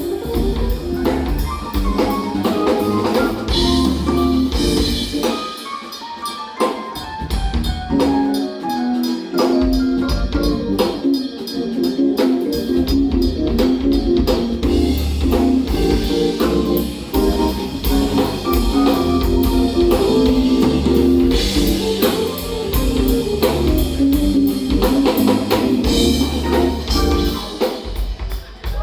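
Live jazz-fusion trio playing: keyboards, electric bass and drum kit in a busy groove, with fast melodic runs over steady drumming. The deep bass drops out briefly about six and nine seconds in.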